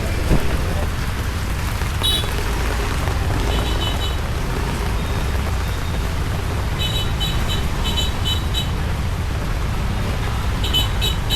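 Steady wash of rain and passing motorbike traffic, with a low rumble. Short bursts of rapid, high-pitched beeping come several times: about 2 s in, around 3.5 s, from about 7 to 8.5 s, and near the end.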